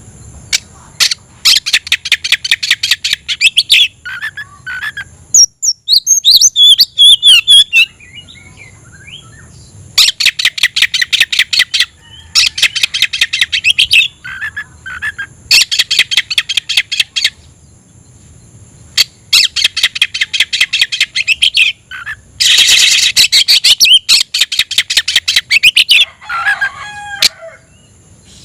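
Oriental magpie-robin (kacer) singing a fighting song: repeated bursts of very fast, harsh rattling chatter, each lasting one to three seconds. The bursts are broken by a falling whistled phrase about six seconds in and a short lower warble near the end.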